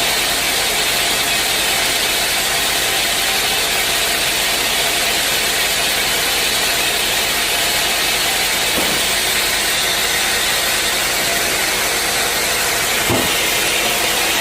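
Sawmill machinery running steadily with a constant hissing drone. Two brief knocks come late on, the second one louder.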